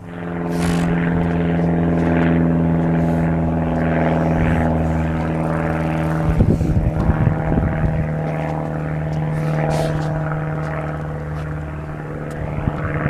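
Steady drone of a car's engine and road noise heard from inside the cabin while driving, with a few knocks and rattles about six to eight seconds in.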